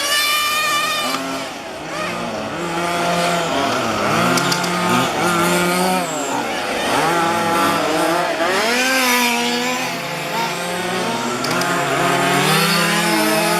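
Several 1:5 scale petrol RC cars' small two-stroke engines running together, revving up and down as they are driven around the track, the overlapping notes rising and falling at different pitches.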